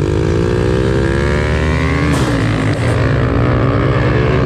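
Pit bike engine accelerating hard, its pitch climbing steadily for about two seconds, then dropping and rising again, as at a gear change.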